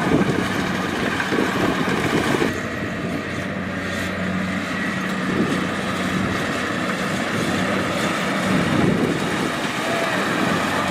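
Kubota DC-70 Plus combine harvester's diesel engine running steadily under harvesting load, with a continuous hum and a noisy rush of machinery. The higher hiss drops away about two and a half seconds in.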